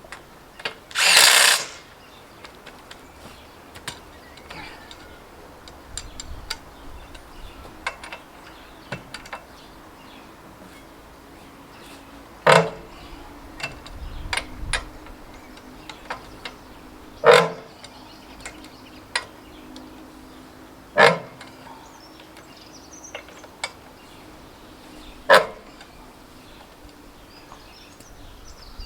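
Metal tool work on a tractor wheel being fitted: a short rasping noise about a second in, then scattered sharp knocks, with four louder metallic clanks that ring briefly, spaced about four to five seconds apart.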